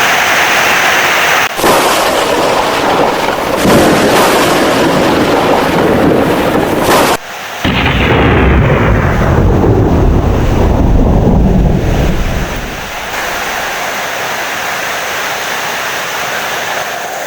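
Heavy rain with thunder. About halfway through, a loud, low thunder rumble starts suddenly and fades over about five seconds, leaving steady rain.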